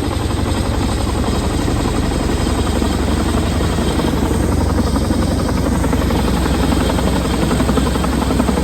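Boeing CH-47 Chinook tandem-rotor helicopter coming in to land, loud and close: a fast, even rotor beat over a steady low drone.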